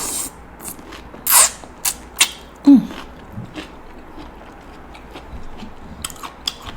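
Steamed king crab shell crackling and snapping in a few sharp clicks as the top shell is pried off the body, with a brief low voice sound near the middle.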